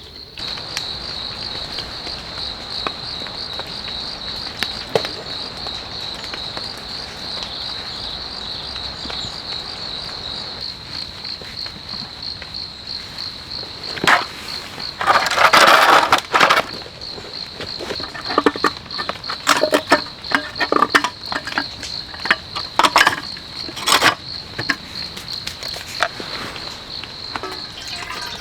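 Insects trilling: one steady, high, rapidly pulsing call with no break. From about halfway on, irregular clicks and crackling rustles come over it, densest for a second or two.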